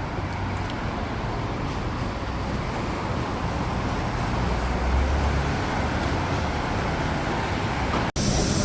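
Steady vehicle rumble with a low hum, slowly getting louder, cut off abruptly about eight seconds in.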